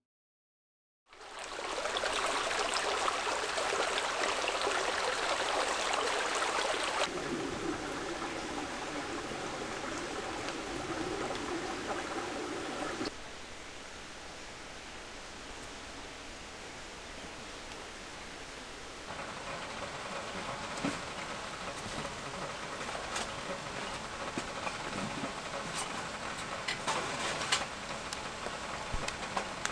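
Rain falling: a steady hiss with scattered faint drop ticks. It starts about a second in and drops or rises abruptly in level a few times.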